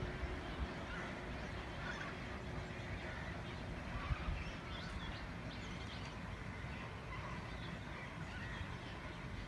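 A flock of flamingos calling, many short goose-like honks overlapping.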